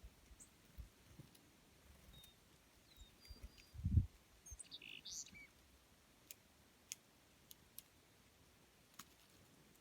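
Faint, scattered short bird chirps, with a low thump about four seconds in and a few sharp clicks near the end.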